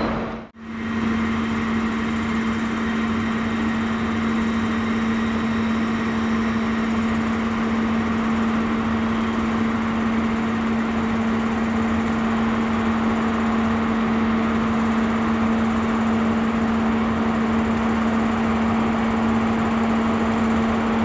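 Trains standing at a station platform, giving a steady idling hum with a constant low drone that does not change. The sound cuts in about half a second in.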